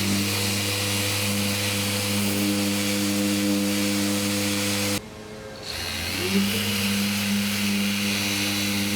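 A power tool running with a steady hum and hiss, shutting off suddenly about five seconds in and spinning back up a moment later.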